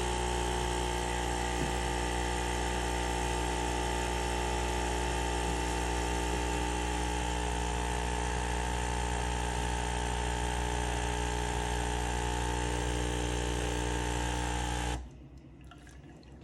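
Espresso machine's pump running steadily, pushing cleaning-tablet solution through for a long shot during a cleaning cycle, then cutting off suddenly near the end.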